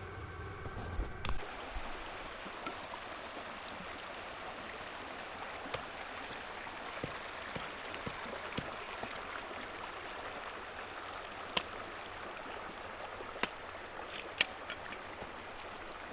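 Steady rush of a river flowing, with a few sharp clicks here and there. A low hum cuts off just over a second in.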